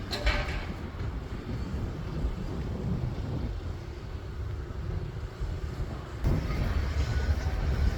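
Excavator running on site, a steady low rumble with wind on the microphone. A short scrape comes right at the start, and the sound jumps louder about six seconds in.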